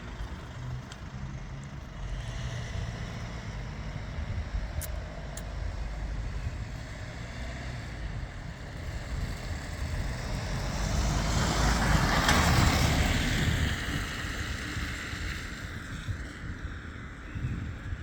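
Street traffic: a steady low rumble, with one vehicle passing that grows to its loudest about twelve seconds in and then fades.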